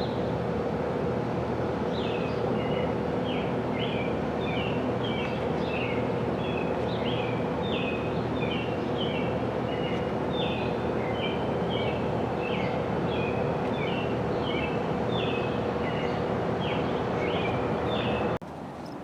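Demolition machinery's diesel engine running steadily, with a string of short high chirps over it; the sound cuts off suddenly near the end.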